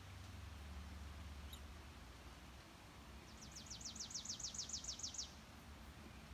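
A songbird's trill: about a dozen quick, evenly spaced high notes, each sweeping downward, lasting nearly two seconds.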